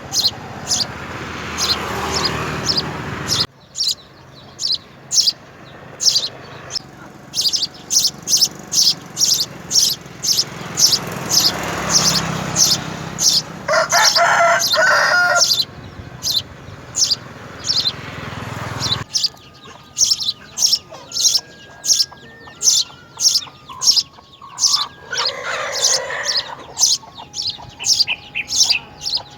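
A bird chirping over and over in short, high chirps, roughly one or two a second. Twice, about halfway through and again near the end, there is a longer, lower call with several tones.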